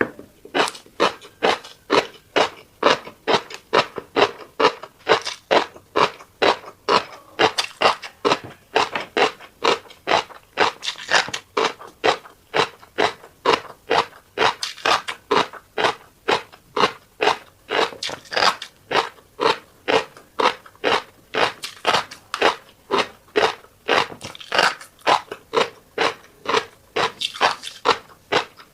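A person chewing crunchy food close to the microphone, a steady run of crisp crunches about two to three a second.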